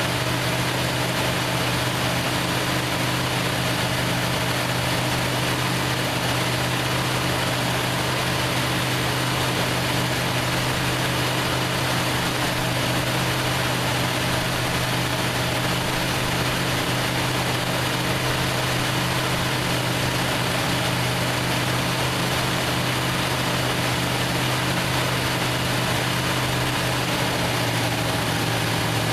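1968 Plymouth Fury's 383 big-block V8 with a Carter AVS four-barrel carburettor idling steadily, a low even rumble; the idle drops slightly near the end.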